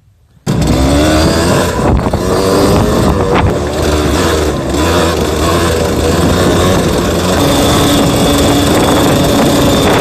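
Yamaha DT200WR single-cylinder two-stroke dirt bike engine being ridden, starting abruptly about half a second in. Its pitch rises and falls with the throttle, then it holds a steadier note near the end.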